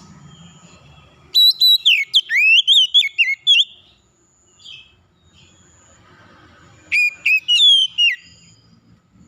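A songbird singing two bursts of loud, rapidly varied whistled phrases, the first starting about a second in and lasting a couple of seconds, the second shorter near the end.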